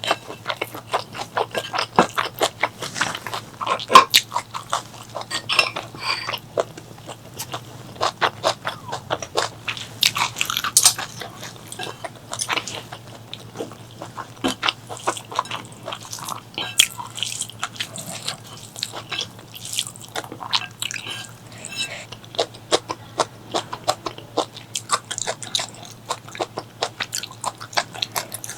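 Close-miked chewing and eating: a dense, irregular run of wet mouth clicks, smacks and soft crunches. A faint steady low hum sits underneath.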